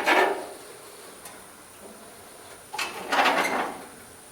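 Two short scraping slides of metal on the Jotul C31 cast-iron fireplace insert as it is adjusted, one right at the start and a longer one about three seconds in.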